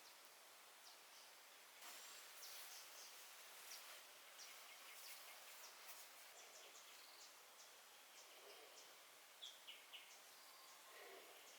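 Faint steady hiss of rain with scattered light ticks of drops, several a second from about two seconds in, and a few louder ticks near the end.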